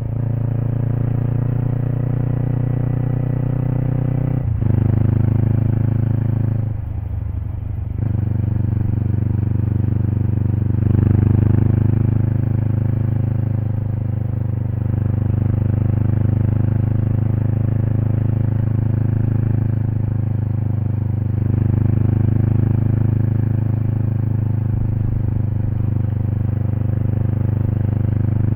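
Kawasaki Eliminator SE's parallel-twin engine running through a BEAMS Power Header aftermarket exhaust while the bike is ridden. The note breaks sharply about four and a half seconds in, eases off around seven seconds, and picks up again about eleven seconds in.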